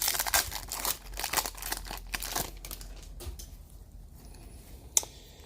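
Crinkling and tearing of a trading-card pack wrapper being opened and handled, dense for about the first three seconds and then quieter, with one sharp click near the end.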